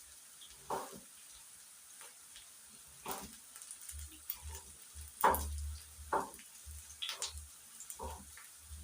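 Chopped onions frying in cooking oil in a pan, with a spoon stirring and scraping against the pan about once a second. The loudest scrape comes about five seconds in.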